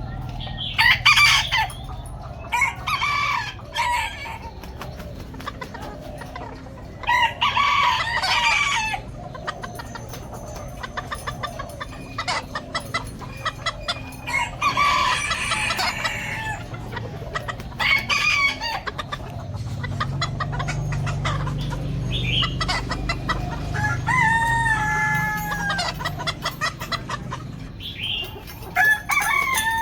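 Ornamental roosters crowing again and again, long calls every few seconds, with clucking in between. Some of the later calls fall in pitch.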